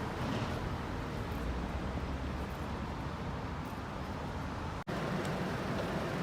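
Street ambience with a steady rumble of road traffic. The sound cuts out for an instant about five seconds in.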